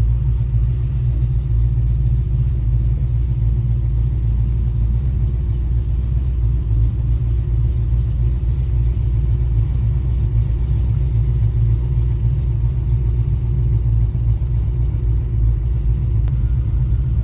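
Chevrolet Nova's engine idling steadily with a deep low rumble.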